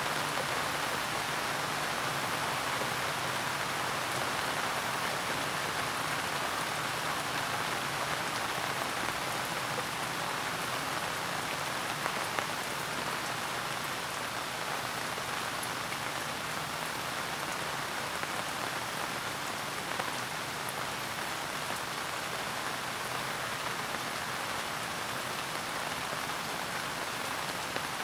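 Steady gentle rain falling, an even hiss with now and then a sharper single drop.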